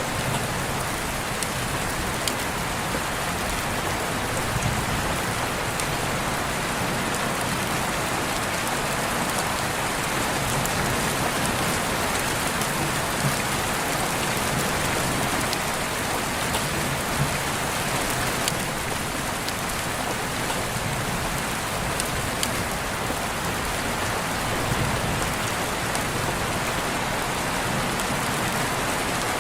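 Steady rain falling, a constant hiss with scattered individual drops pattering on surfaces.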